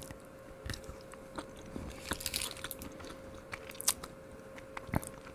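Biting into and chewing a milk chocolate truffle: scattered small clicks and soft crunches, over a faint steady hum.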